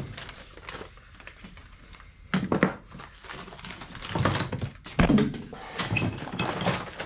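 Hands rummaging through an engine rebuild kit: small metal parts clinking and packets rustling, with a few sharp knocks, the loudest at the very start and about five seconds in.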